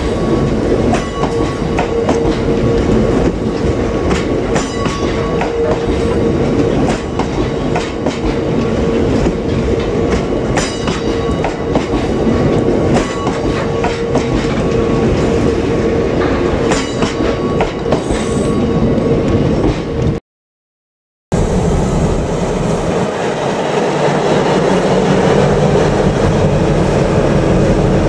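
Freight wagons rolling past close by, wheels clicking over rail joints at regular intervals with a steady ringing tone. After a brief cut-out about 20 seconds in, a Class 60 diesel locomotive's engine running as it hauls its train.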